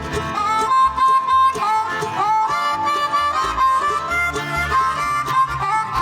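Live bluegrass band in an instrumental break: a harmonica takes the lead with bending, sliding notes over strummed and plucked strings and a steady bass pulse.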